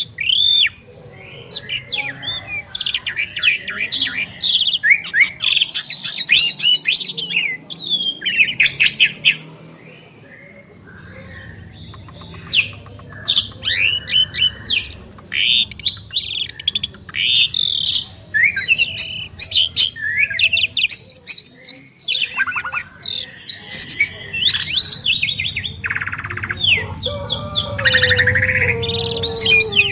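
Two Javan pied starlings singing in duet: a dense, loud mix of whistles, chirps, squawks and fast rattling clicks. Near the end come lower, falling whistled tones.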